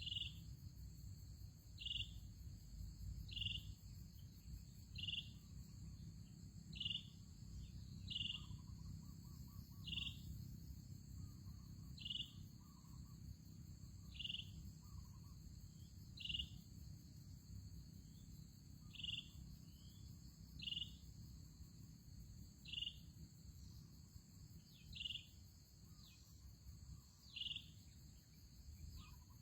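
Outdoor ambience: short high chirps repeat about every two seconds over a steady, high insect drone and a low rumble of wind-like noise.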